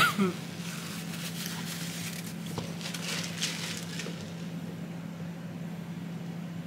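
Eating mouth noises close to the microphone: a sharp smack at the start, then soft, irregular chewing sounds for about three seconds, over a steady low hum. It grows quieter after about four seconds.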